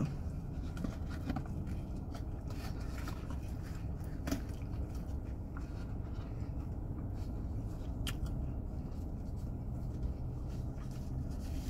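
Quiet chewing of a mouthful of Big Mac, with a few faint clicks and paper-wrapper handling, over a steady low hum inside a car.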